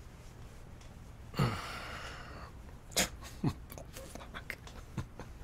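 A man's short, voiced, sighing exhale, followed by a few sharp soft knocks and clicks, with smaller ticks between them.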